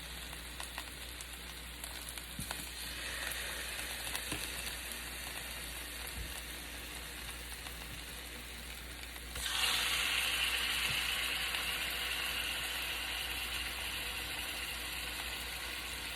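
Marinated chicken-thigh skewers with pineapple and cherry tomato sizzling in hot olive oil in a skillet, a steady frying hiss. About nine and a half seconds in the sizzle suddenly gets louder and stays that way.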